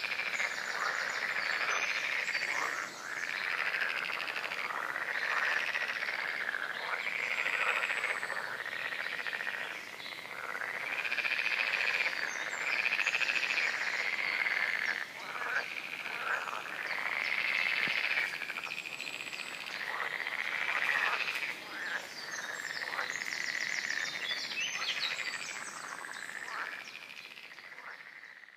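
A chorus of many frogs croaking together, swelling and ebbing in waves every couple of seconds, with a few short high bird notes above it. It fades out near the end.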